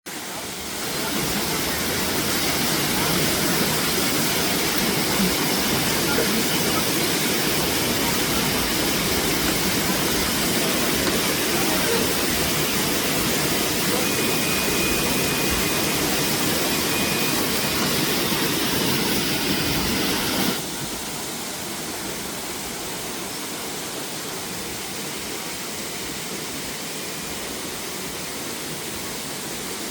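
Waterfall: a steady rush of falling water, dropping suddenly to a lower level about two-thirds of the way through.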